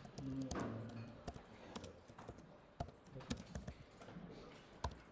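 Typing on a computer keyboard: irregular, spaced-out keystroke clicks as a terminal command is entered.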